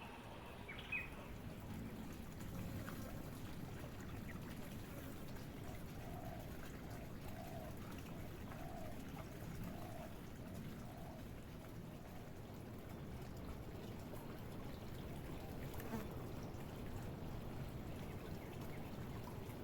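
Faint, steady outdoor background hiss. In the middle, a bird gives a run of five soft, low notes about a second apart.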